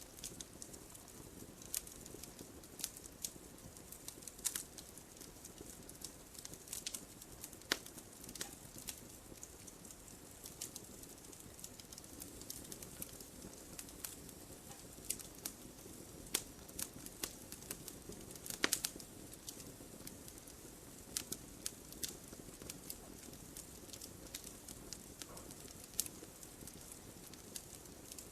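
Campfire burning: burning wood crackles with irregular sharp pops and snaps over a soft, steady rush of flame. One pop about two-thirds of the way through is louder than the rest.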